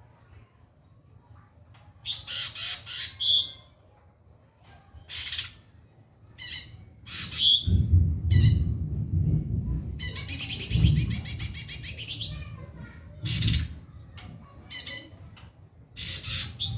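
White-rumped shama (murai batu) singing in short bursts of high, fast notes, with a long rapid trill in the middle. A low rumble sounds under the song for several seconds in the middle.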